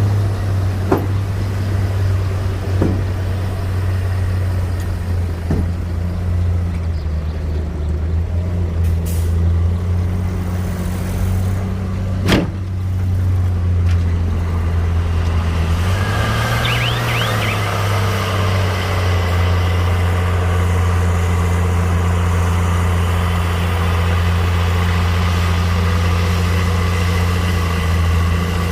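Heavy construction machine's diesel engine running steadily, with occasional metallic knocks, a sharp one about twelve seconds in. Around sixteen seconds in the engine pitch rises briefly and a short high squeal is heard.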